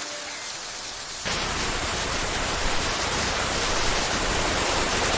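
Rain falling. About a second in it cuts sharply to a louder, even hiss of heavy rain.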